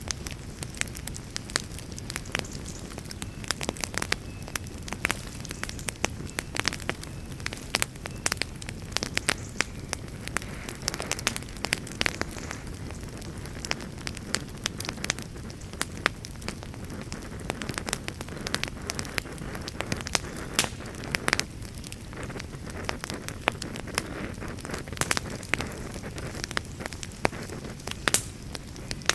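Wood campfire crackling and popping, with sharp irregular snaps over a steady low rush.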